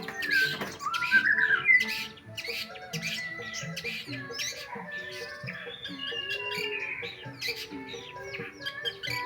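Long-tailed shrike (cendet) giving a rapid run of short calls and chatter, over background music.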